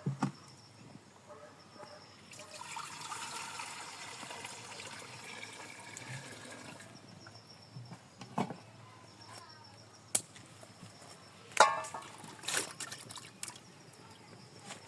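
Liquid pouring or trickling for a few seconds, then several separate sharp knocks and clatters.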